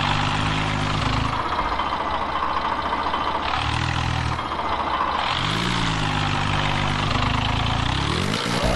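Tractor diesel engines working hard in a towing pull. The engine note rises and falls several times over a constant engine noise.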